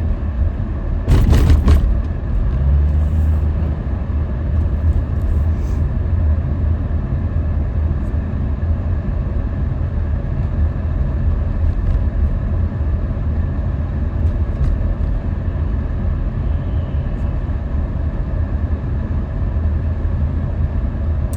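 Steady low road rumble inside a moving car, with a brief loud noise about a second in.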